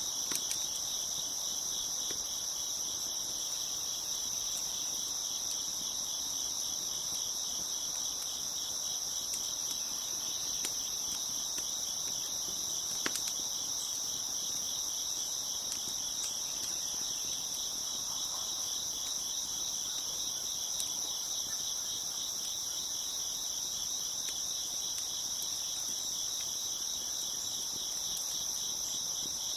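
A dense chorus of crickets chirping steadily and without pause, with a few faint crackles from a wood fire, the clearest about halfway through.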